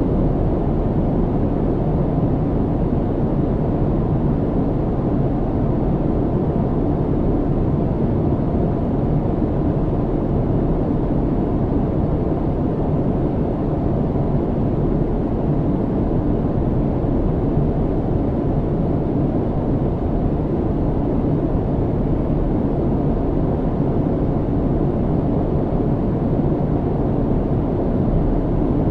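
Steady low cabin rumble of an airliner in flight: a deep, even drone of engine and airflow noise with little hiss, unchanging throughout.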